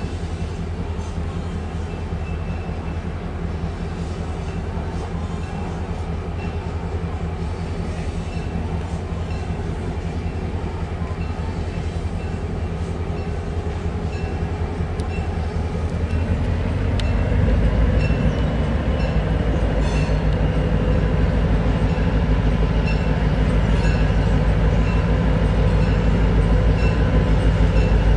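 An approaching locomotive's engine rumbling steadily, with a bell ringing about once a second. It grows clearly louder about two-thirds of the way through as the train draws near.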